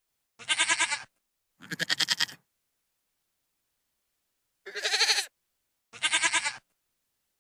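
Goat bleating four times in two pairs, each call under a second long with a rapid quavering wobble.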